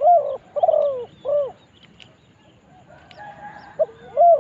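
Spotted dove cooing: a three-note phrase, then a second phrase starting near the end, with faint chirps of smaller birds between.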